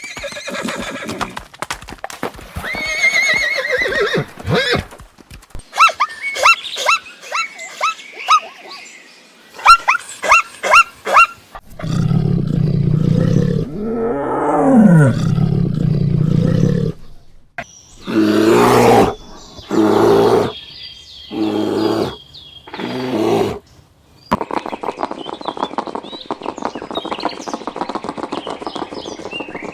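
A succession of different animal calls and cries, one animal after another: short repeated calls, a lower drawn-out call, then loud pulsed bursts.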